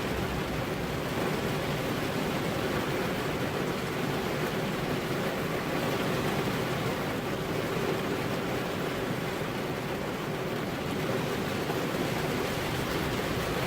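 Steady rain falling on a car's windows, an even hiss without pauses or single drops standing out.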